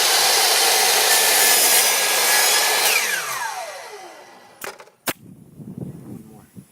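Electric power saw cutting through a piece of wood. About three seconds in, the motor is switched off and the blade spins down with a falling whine. A few sharp knocks follow near the end.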